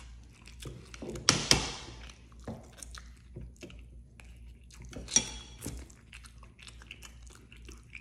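Close-up mouth sounds of a person eating a mouthful of soft food: wet chewing and lip smacking. Two louder sharp sounds stand out, about one and a half seconds in and again about five seconds in.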